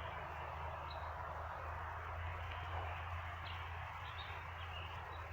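Outdoor ambience: a steady low hum and hiss with a few faint, short bird chirps scattered through it.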